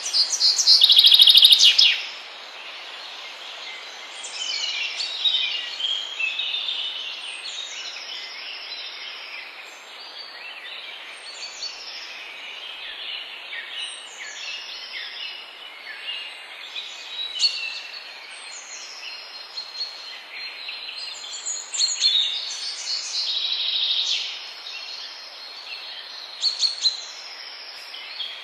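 Several birds singing and calling together, with a loud dense burst of song in the first two seconds, then a recurring short high whistled note every couple of seconds among other chirps. A steady hiss of natural background noise runs beneath.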